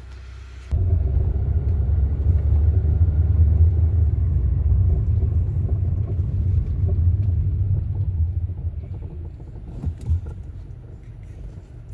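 Kia Soul pulling away and driving, a steady low rumble of engine and road that starts about a second in and fades near the end. No brake grinding is heard: the car is not making a weird sound after the brake job.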